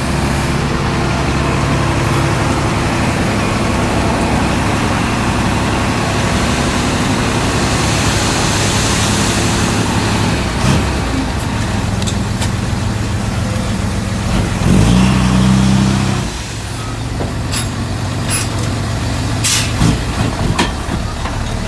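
Heavy diesel earthmoving machinery running steadily. There is a hiss of air about eight seconds in, the engine rises louder around fifteen seconds and drops away a second later, then a string of sharp clanks near the end.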